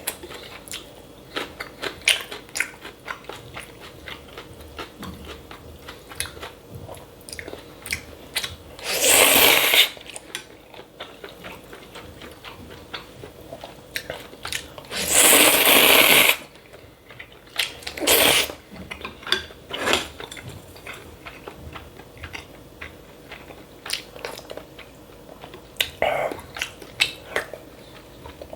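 Close-miked eating of cold buckwheat noodles: steady chewing with crisp crunches and small clicks, and two long, loud slurps, one about nine seconds in and one about fifteen seconds in.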